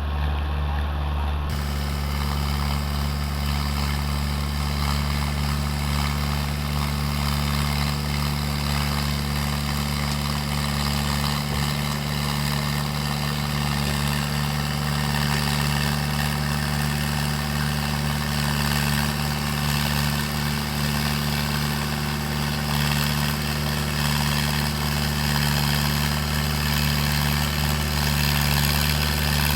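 Mahindra Arjun 555 tractor's diesel engine idling steadily, a low, even running note with no revving.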